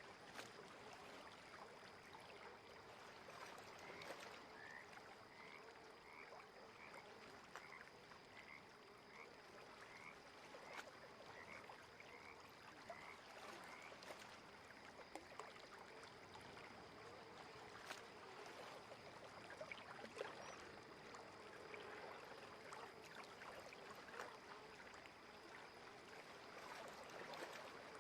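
Faint lakeside ambience with a frog calling a run of short, evenly repeated notes, a little over one a second, starting about four seconds in and stopping about halfway through, over a steady soft water hiss.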